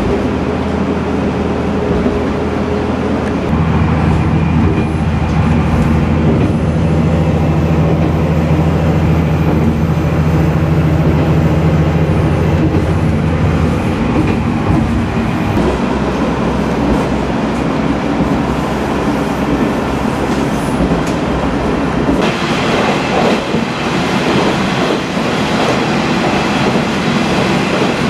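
A diesel railcar running, heard from inside: a steady low engine drone for the first half, then rattling wheel and rail noise after the drone drops away about halfway through. The sound changes abruptly again near the end.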